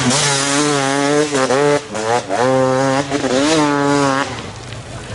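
Enduro motorcycle engine revving hard at high revs. The revs dip briefly and climb back several times, then drop away near the end.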